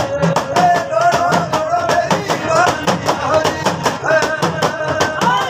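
Live Rajasthani folk devotional music: a sung melody over instrumental accompaniment, with a steady, fast beat of sharp percussion strokes, about five a second.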